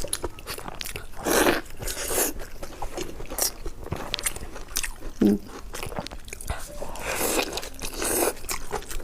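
Close-miked chewing and lip-smacking of food: a steady run of short wet clicks and bites, with a brief closed-mouth hum about five seconds in.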